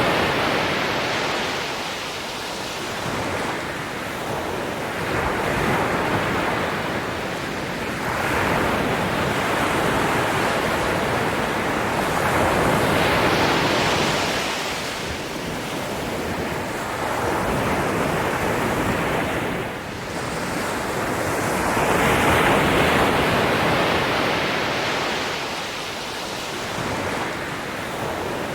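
Ocean waves breaking and washing onto a shore, the surf swelling and ebbing in slow surges every few seconds, with some wind.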